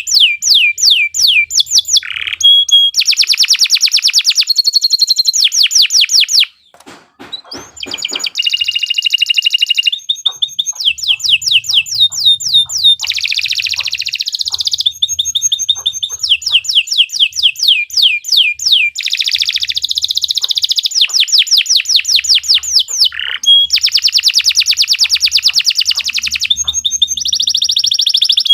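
Domestic canary singing a long, loud, high-pitched song of rapid trills and rolling phrases, one phrase running straight into the next, with a short break about six and a half seconds in.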